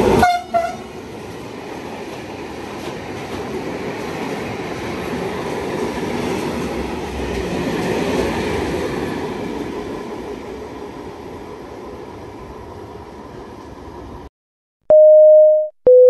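A train passing through a station: a horn sounds and cuts off right at the start, then the noise of the train going by swells to a peak about eight seconds in and fades away. After a brief silence comes the station public-address chime, two steady notes with the second lower, that comes before an announcement.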